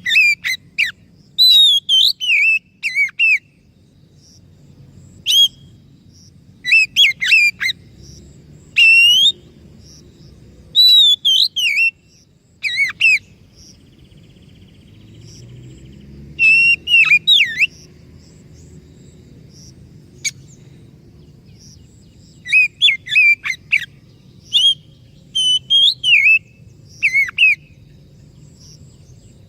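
Oriental magpie-robin (kacer) singing: varied whistled phrases of quick rising and falling notes, in bursts a second or two long with short pauses between them, over a faint low hum.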